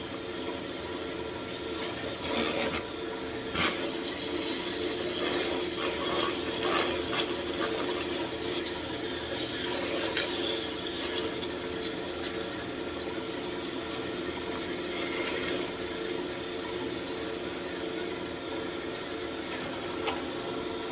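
Wood lathe running with a steady hum while a turning tool scrapes and cuts the spinning walnut wand blank, the rough cutting noise coming and going with a few short breaks.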